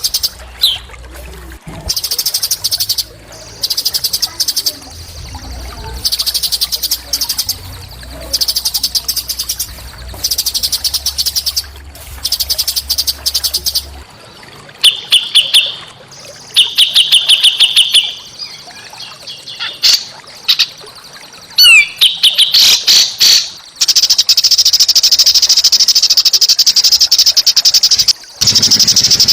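Small songbirds singing high, rapid trills in short bursts repeated every second or so, then one long unbroken trill near the end.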